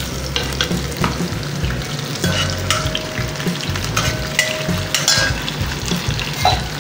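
Taro root pieces frying in oil in a steel saucepan, a steady sizzle, with a ladle stirring them and giving short scattered clicks against the pan.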